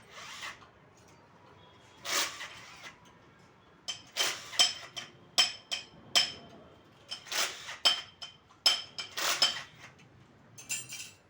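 Metal tools and engine parts clinking and clanking as they are handled, about a dozen irregular sharp clinks, many with a short metallic ring.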